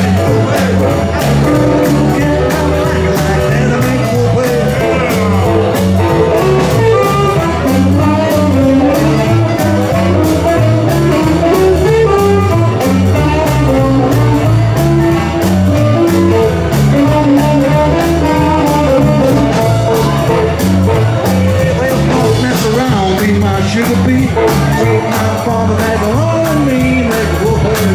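Live band playing an instrumental passage with a steady drum beat and guitar.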